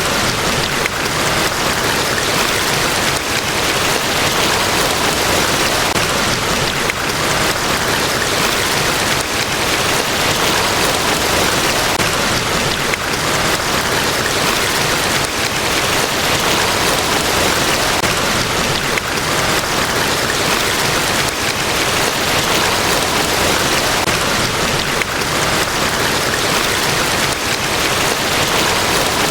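Niagara Falls: a large waterfall pouring, heard as a steady, even rush of falling water.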